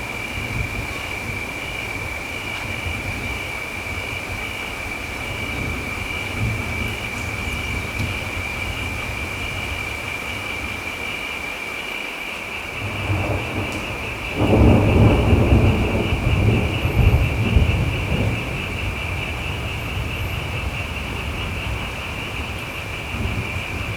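Thunderstorm: steady rain over a low rumble, with a loud roll of thunder that builds about 13 seconds in, is loudest for the next few seconds, then fades.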